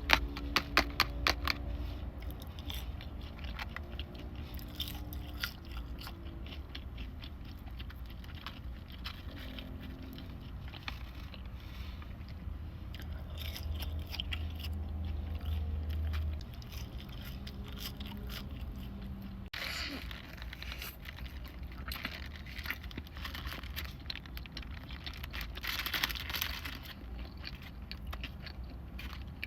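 Close-miked eating: crunchy bites and chewing, with many sharp crackles.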